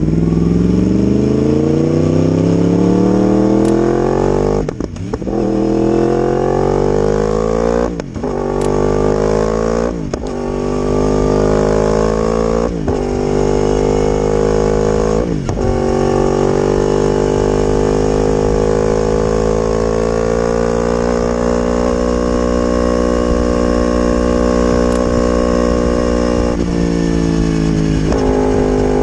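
Yamaha R1 inline-four sport bike with an aftermarket exhaust accelerating hard through the gears, its engine note climbing and then dropping sharply at five upshifts, then holding steady revs at speed, with revs easing slightly near the end.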